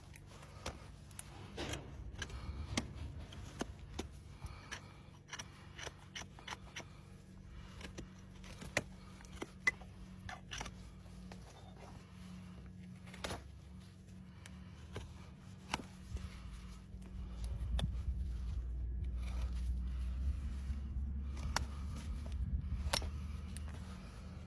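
Hoof-trimming tools working on a horse's hoof: irregular sharp snips and clicks with scraping between them. A low steady rumble joins in about 17 seconds in.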